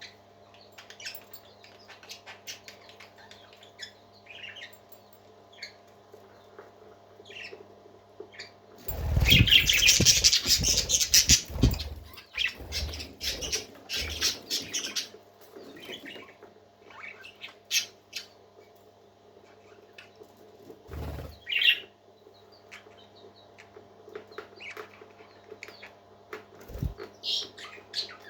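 Parrots chirping and squawking now and then over a steady low hum, with a loud burst of wing flapping about nine seconds in that lasts some three seconds.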